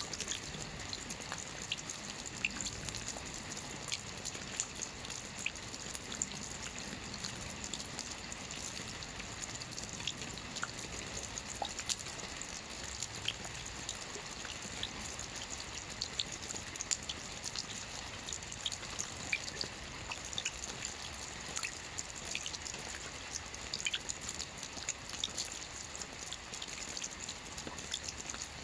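Soft rain falling on a roof: a steady hiss of rainfall with many small, scattered drop ticks.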